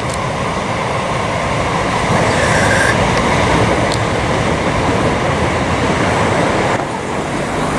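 Southern electric multiple unit train running past close below and away along the track: a steady rumble of wheels on rail, with a brief higher whine near the middle and the noise easing slightly near the end.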